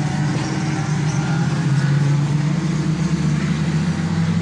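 Several banger racing car engines running together, a steady low drone with no single car standing out.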